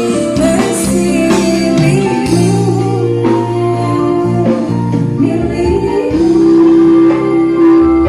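A song with singing and instruments played loudly through a homemade mini class AB power amplifier with five pairs of Sanken output transistors, as a sound test of the amplifier.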